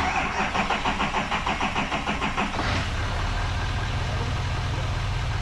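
Diesel pickup engine cranked by its starter on power from a lithium jump pack alone, with no batteries in the truck. It cranks with a rapid, even chugging for about two and a half seconds, then catches and settles into a steady diesel idle.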